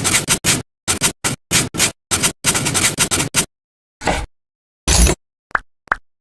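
A string of short scraping and scratching noises, each cut off abruptly by a dead-silent gap, followed near the end by a few quick, evenly spaced taps that ring briefly.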